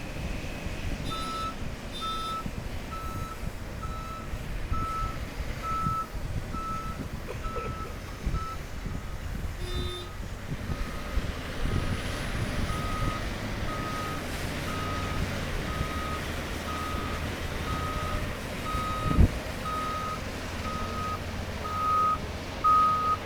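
Backup alarm on heavy earthmoving equipment beeping steadily about once a second over the low rumble of diesel engines, with a single thump late on.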